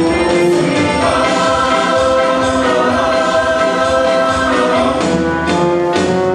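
A choir singing with musical backing, holding one long chord for several seconds before moving to new notes near the end.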